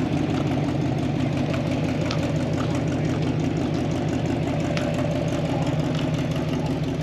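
A car engine idling steadily, an even low rumble with rapid regular firing pulses.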